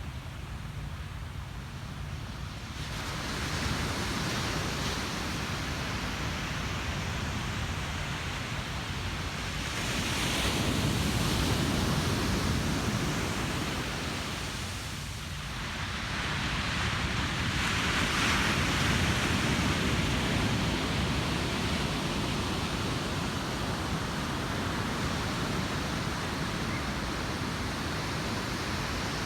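Ocean waves breaking and washing up the beach, surging louder several times, with some wind on the microphone.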